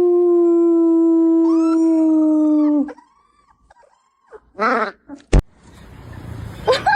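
A dog howling one long, loud held note that sinks slightly in pitch and stops about three seconds in. It is followed by a short wavering sound and a single sharp click.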